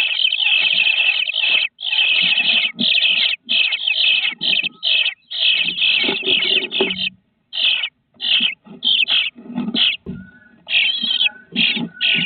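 Nestling birds calling from inside a nest box: quick runs of high, harsh calls in short bursts, one after another, with brief pauses.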